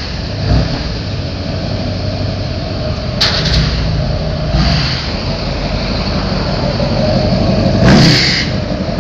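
Modified Duramax turbodiesel V8 in a heavy-duty pickup running and revving, with two short louder bursts, about three seconds in and near the end.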